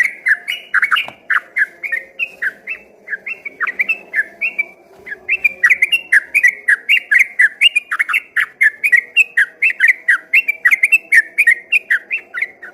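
A sooty-headed bulbul (trucukan) singing a long, fast run of whistled notes, about four or five a second, in the rapid non-stop 'ropel' style of a bird in full song. The run breaks off just before the end.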